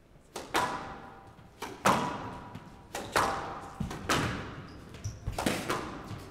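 Squash rally: the ball cracks off rackets and the court walls in a string of sharp hits, roughly one every second or so, each ringing briefly in the glass-walled court.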